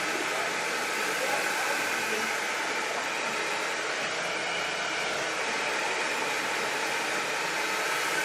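Hair dryer running steadily: an even rush of air with a faint high whine.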